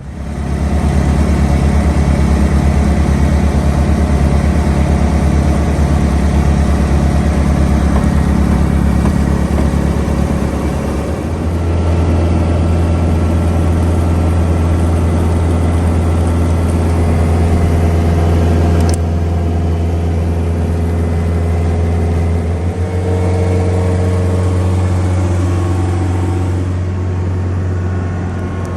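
Tractor engine running steadily, its note stepping to a new speed about 11 seconds in and again around 23 seconds in.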